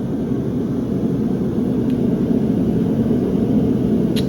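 A farrier's forge running with a steady, even roar, with a light metallic click about four seconds in.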